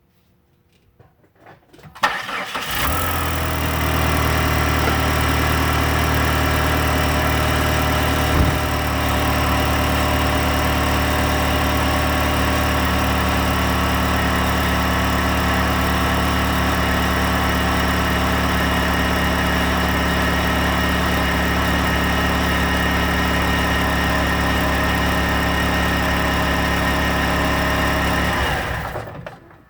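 PT Cruiser's turbocharged 2.4-litre four-cylinder engine cranked and catching about two seconds in, then idling steadily before shutting off near the end. It has an exhaust leak at the turbo manifold-to-catalytic converter joint.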